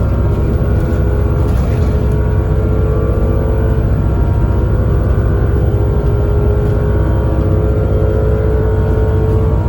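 Bus engine and drivetrain heard from inside the bus: a deep, steady rumble with a whine that slowly rises in pitch as the bus gathers speed.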